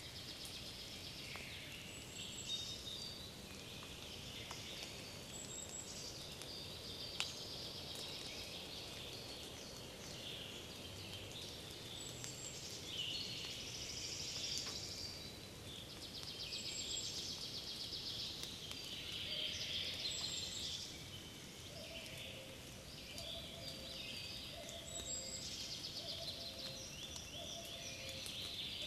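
Spring forest birdsong: several songbirds singing over one another, with chirps, trills and repeated high whistles. A lower, repeated two-note call joins in about three-quarters of the way through.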